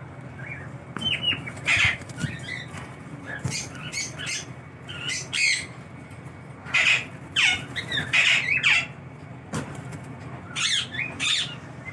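Sun conure squawking: many short, harsh screeching calls in irregular bursts, the loudest a little past the middle and again near the end, over a faint steady hum.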